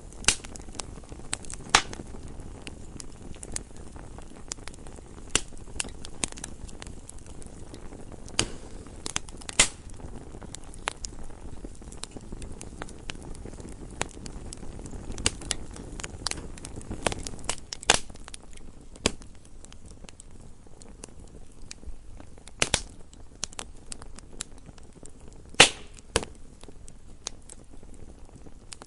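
Wood fire in a fireplace burning, with a low steady rush of flame and irregular crackles and pops of burning logs, a few of them sharper and louder.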